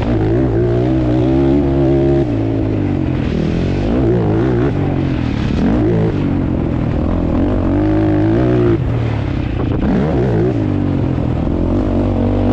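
ATV engines running hard on a motocross track, the engine note dropping and climbing again every few seconds as the throttle is cut and opened, over a steady low engine drone.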